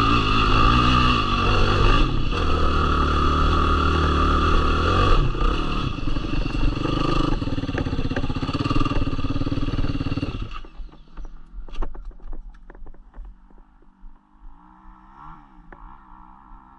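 Yamaha YFZ450R quad's single-cylinder four-stroke engine running with a wavering pitch, then stopping abruptly about ten seconds in. After that a fainter engine runs unevenly, with scattered clicks and crunches.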